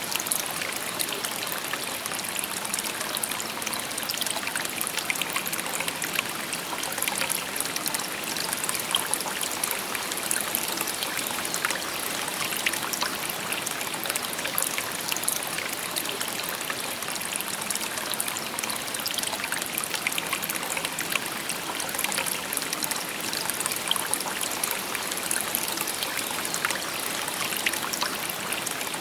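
A shallow river or stream murmuring and babbling steadily over stones, a continuous rushing hiss with many small splashes and trickles.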